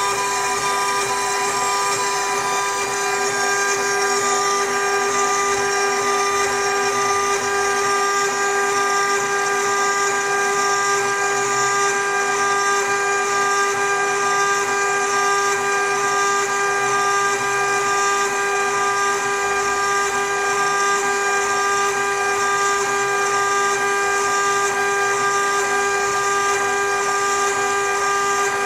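CNC router running an engraving job: the spindle gives a steady, loud whine made of several held tones, over a constant mechanical hiss.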